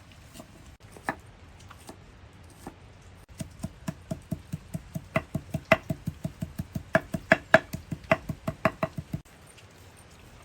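Knife chopping food on a cutting board: a few scattered knocks, then a fast, even run of about four strikes a second, each with a slight ring, which stops suddenly near the end.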